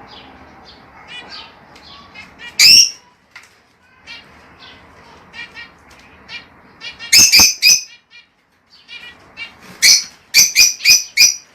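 Lovebirds chirping continuously, with loud, shrill calls cutting through: one about three seconds in, a quick burst of three a little past halfway, and a rapid run of about five near the end.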